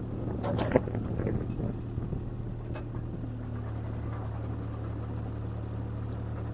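CAT 303C CR mini excavator's diesel engine running steadily, with a few short cracks and knocks in the first couple of seconds.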